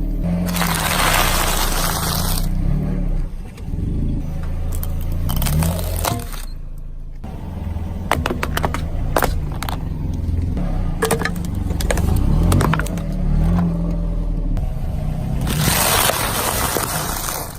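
A motor running low and steady, with two long bursts of crunching and scattered sharp cracks and snaps, as of objects being crushed.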